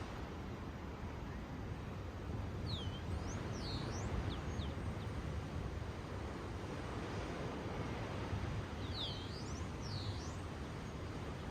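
Ocean waves washing steadily on the shore, with two bursts of bird chirps made of quick sweeping notes: one a few seconds in and another near the end.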